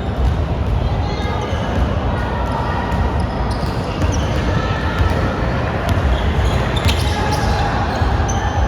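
Basketball being bounced on a gym court during a game, with repeated thuds and scattered sharp sounds in a large echoing hall.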